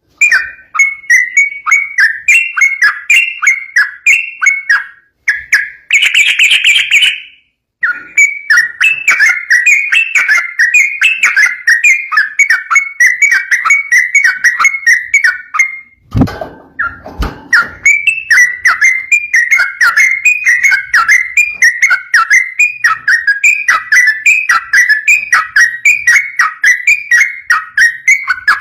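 Yellow-vented bulbul (trucukan) singing a long, fast run of rapid whistled and chattering notes, briefly broken by a harsher call about six seconds in and a low thump about sixteen seconds in.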